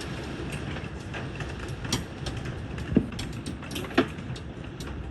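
Heavy rain falling with hailstones striking hard surfaces in a steady, irregular patter of sharp clicks and knocks. Two louder hits land about three and four seconds in.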